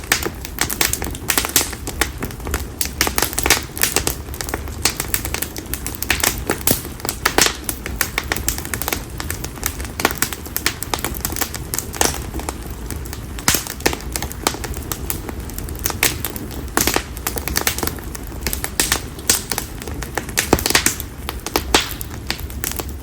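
Split konara oak (Quercus serrata) firewood burning in an open campfire, crackling and popping with many irregular sharp snaps over a low, steady rush of flame.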